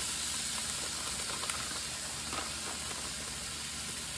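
Steady sizzle and hiss of stir-fried vegetables frying in a hot skillet as riced cauliflower is poured in on top.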